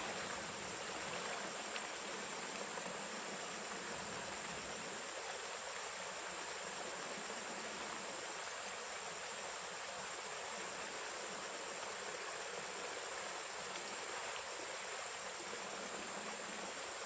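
A steady, high-pitched insect chorus holds one unbroken note, over the even rush of stream water.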